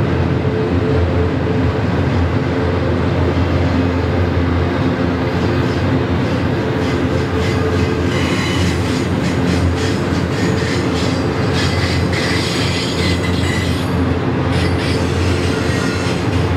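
Double-stack intermodal freight train rolling past: a steady low drone with the rumble of its wheels on the rails. From about eight to fourteen seconds in, high-pitched metallic squealing and rattling from the wheels rises over it.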